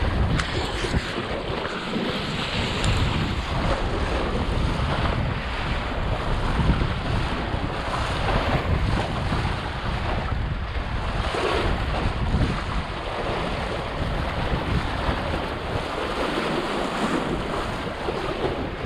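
Wind buffeting the microphone over water rushing and splashing along the hull of a small sailboat under way in a strong breeze: a loud, steady rush of noise.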